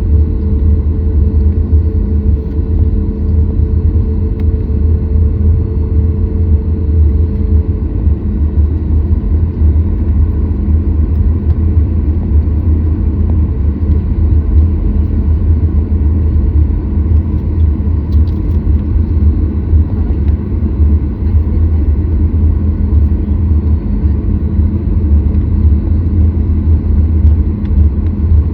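Steady, loud, low rumble of a Boeing 737 MAX 8's CFM LEAP-1B engines and airflow heard inside the cabin, with a faint steady hum on top that fades out about a quarter of the way through.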